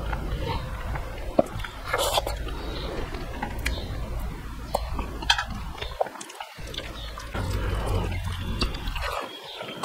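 Close-miked mukbang eating sounds: chewing a mouthful of rice and curry with wet smacks and short clicks. Near the end, fingers mixing rice on a steel plate.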